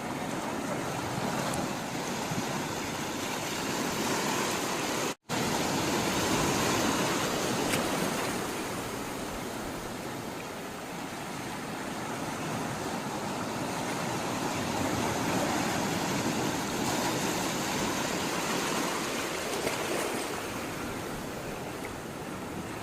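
Sea water rushing and washing steadily, swelling and easing slowly, with a split-second dropout about five seconds in.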